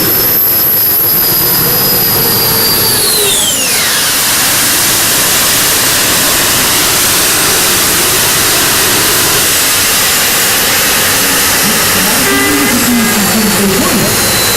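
Modified pulling tractor's engine: a high whine that falls steeply in pitch about three and a half seconds in, over a steady, loud rush of engine noise.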